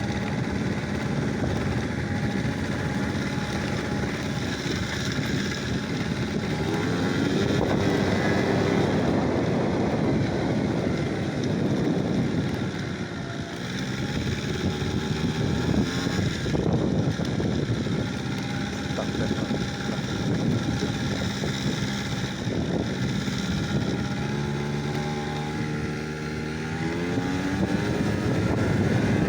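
An engine running, its pitch rising and falling several times as it changes speed, with wind noise on the microphone.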